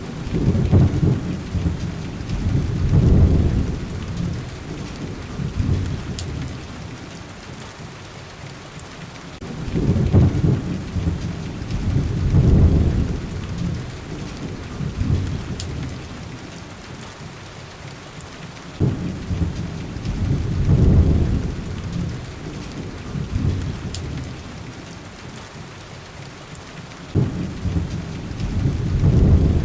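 Steady heavy rain, with a low rumble of thunder swelling and fading about every nine seconds.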